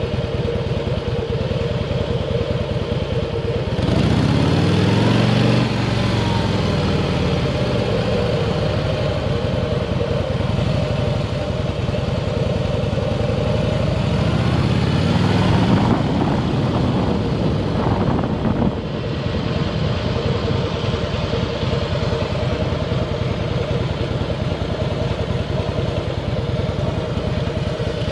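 Harley-Davidson Fat Boy's V-twin engine running as the motorcycle is ridden, with a steady pulsing beat. The engine note swells and shifts in pitch twice, about four seconds in and again around fifteen seconds.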